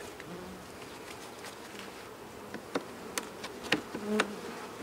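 Honeybees buzzing around an open hive, with single bees flying close by near the start and again near the end. Several sharp clicks and taps from handling the hive parts come in the second half.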